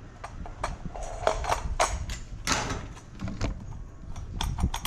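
Irregular clicks, knocks and light scrapes of an LED retrofit lamp's metal and plastic parts being worked apart by hand, the LED board held back by its wires.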